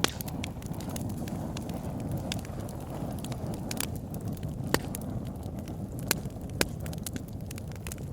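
Campfire burning: a steady low rush of flame with irregular crackles and sharp pops from the burning wood. A few louder pops stand out, one right at the start and a cluster past the middle.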